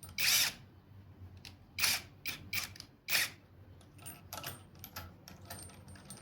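A cordless drill/driver, its clutch set to 12, driving a bolt into a motorcycle handlebar end in short bursts, with small clicks of the tool and fitting between them.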